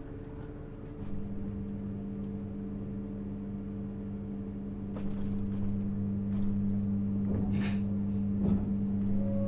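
Inside a 651 series electric train: its equipment hums steadily at a fixed pitch. A stronger hum comes in about a second in and a deeper one joins midway, growing louder, with a few brief clatters near the end.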